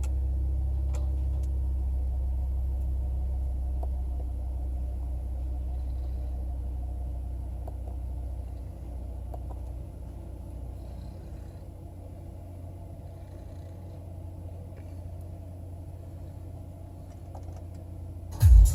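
Car engine idling with a low, steady rumble that fades over the first half and then carries on more quietly. There is a loud thump near the end.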